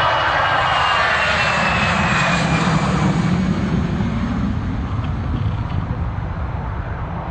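Airplane passing overhead: engine rush with a whine that slides down in pitch, fading over the last few seconds.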